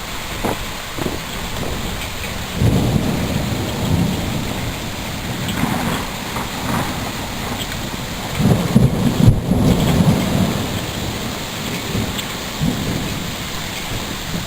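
Steady rain, with two bouts of low rumbling, the first about two and a half seconds in and the second, louder, about eight and a half seconds in.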